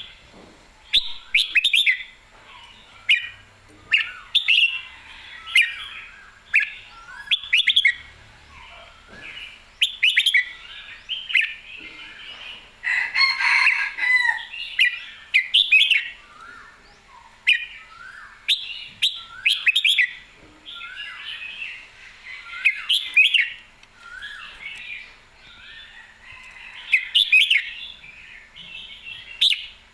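Red-whiskered bulbul singing in short, clear whistled phrases, one after another about every second, busiest and loudest around the middle. It is a caged bird in lively, competition-ready song.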